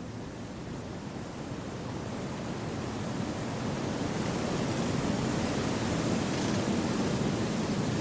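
Wind blowing through forest trees, a steady rushing that swells into a stronger gust over the first half and then holds.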